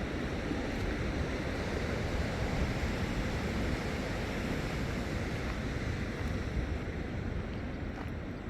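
Steady rushing of fast-flowing floodwater, with wind buffeting the microphone.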